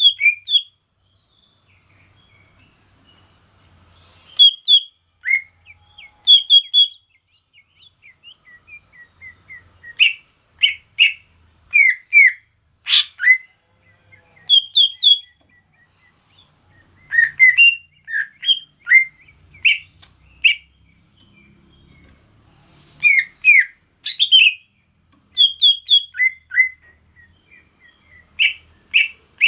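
Greater green leafbird (cucak ijo) singing in short bursts of quick, sharply sliding whistled and chirping notes, with pauses of a second or more between bursts. A steady high hiss runs underneath.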